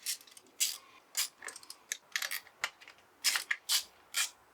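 Short metallic clicks and clinks, about a dozen at irregular intervals, as small engine-case bolts are unscrewed with a hand tool and handled.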